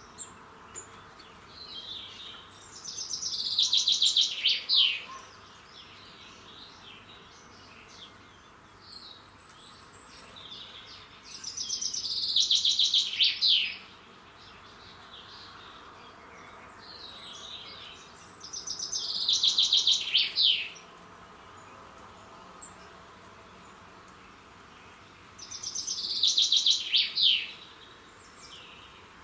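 A songbird singing the same short song four times, about every seven to eight seconds: each song a rapid run of repeated notes that ends in a quick falling flourish. Fainter chirps are heard between the songs.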